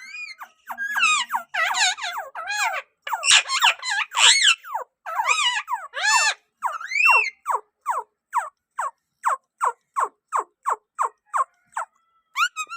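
Green Indian ringneck parakeet calling: a jumble of squeaky chattering calls that bend up and down in pitch, then a steady run of short, downward-sliding squawks repeated about two or three times a second.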